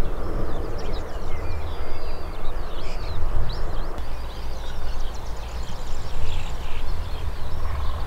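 Several songbirds singing, a dense run of short chirps and trills, over a steady low rumbling noise.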